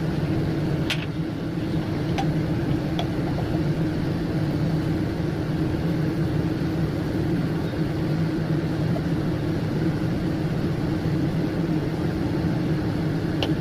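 A motor running steadily with a constant low hum, with a few faint sharp clicks over it.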